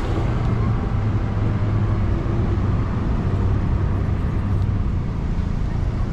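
City street traffic: a steady low engine rumble of passing or idling vehicles.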